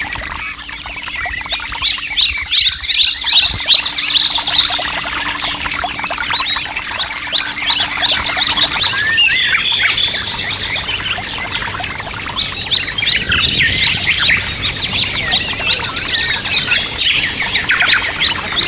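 Many small birds chirping together: a dense chorus of short, quick calls that swells and eases in waves.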